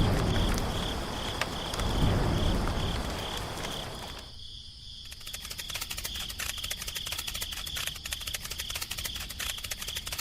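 Cricket chirping steadily, a high pulsed note about twice a second. Low rumbling noise under it for the first few seconds, then a fast fine ticking from about halfway on.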